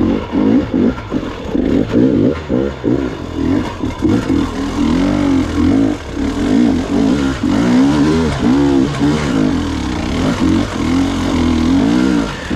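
Gas Gas EX 300 two-stroke enduro motorcycle engine revving up and down over and over as the throttle is worked on and off.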